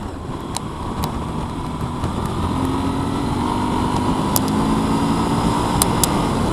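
Motor vehicle running with a low road rumble. About two and a half seconds in, a steady engine note comes through and the sound grows gradually louder.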